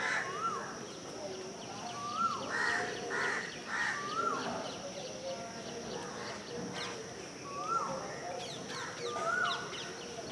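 Birds calling outdoors: a whistled call that rises and falls repeats every few seconds. About two to four seconds in, a few harsh calls come in quick succession.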